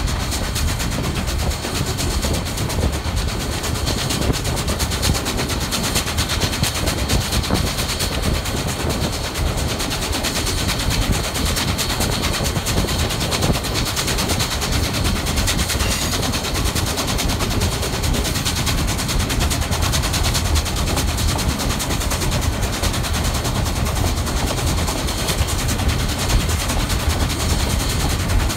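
Steady rushing and crackling noise of wind and running gear, heard riding aboard a moving steam train. There is no music and no clear rhythm.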